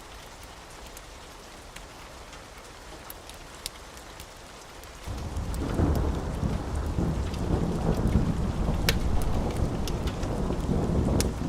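Wood fire in a fireplace crackling, with sharp scattered pops. About five seconds in, a loud low rumble sets in and carries on under the crackles.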